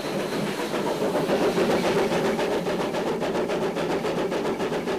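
Virginia and Truckee steam train running, a steady noisy rumble with a fast even rhythm, growing a little louder about a second in.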